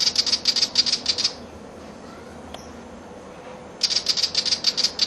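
Willie wagtail's harsh scolding chatter, two rapid rattling bursts of about seven sharp notes a second, one at the start and one near the end: the bird is agitated, mobbing a butcherbird.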